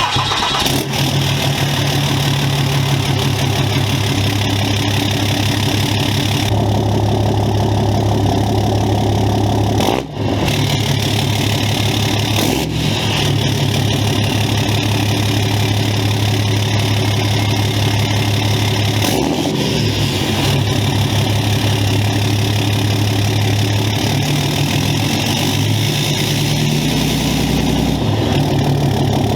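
Ram 2500's 6.7-litre Cummins turbo-diesel engine starting up and then idling, its note shifting a few times along the way.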